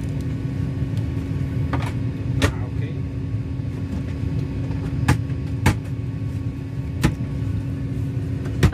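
Steady low rumble of a vehicle in motion, with a constant hum and a handful of sharp clicks.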